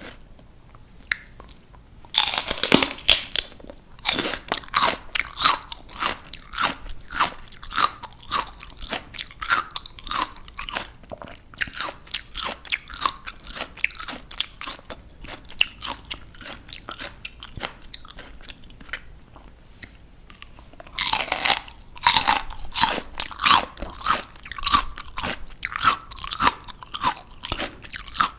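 Crisp, crunchy bites into raw vegetables, each followed by a long run of quick, wet chewing crunches. Two big bites, about two seconds in and again about 21 seconds in, are the loudest sounds.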